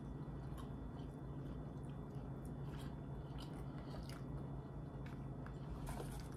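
A person chewing a mouthful of food, with faint scattered smacks and clicks over a low steady hum.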